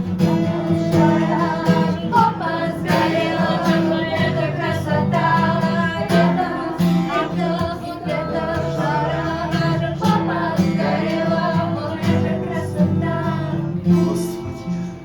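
Singing accompanied by acoustic guitar.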